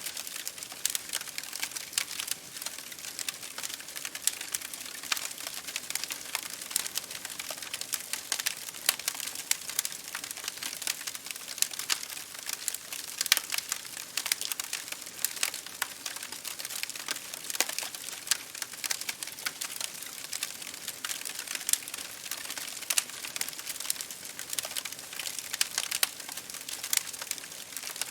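Wood fire crackling in a fireplace, with dense irregular pops and ticks, mixed with rain pattering steadily on a window pane.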